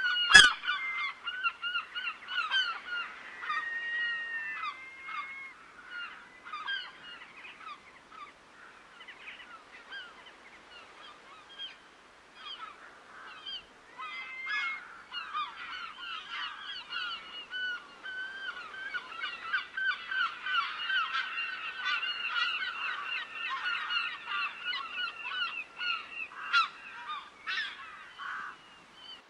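A flock of geese honking, many short calls overlapping and rapidly repeated, thinning out around the middle and growing dense again later. A single sharp click about half a second in.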